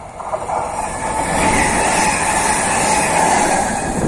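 Electric multiple unit passing close at speed, the rush and rumble of its wheels on the rails building up over the first second or so, with a steady whine running through it.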